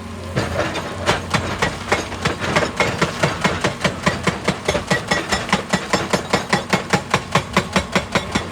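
Excavator-mounted hydraulic rock breaker hammering rock in a fast, even run of about four to five blows a second, over the steady running of the excavator's diesel engine.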